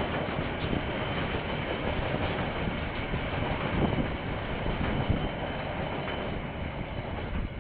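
Freight train of container wagons rolling past, steel wheels running on the rails at a steady level; the noise drops away near the end as the last wagon passes.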